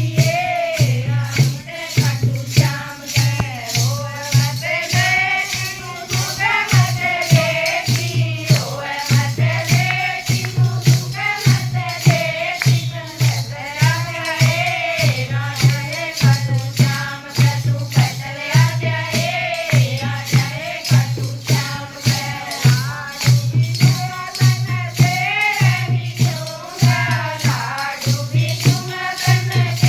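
Haryanvi devotional song (bhajan): singing over a steady beat of rattle-type percussion.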